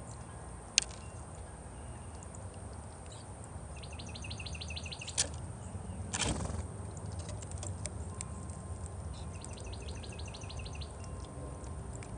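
Songbird calling in two quick runs of rapid, evenly repeated high notes, with scattered sharp clicks and a brief rushing sound in between, over a steady low background hum.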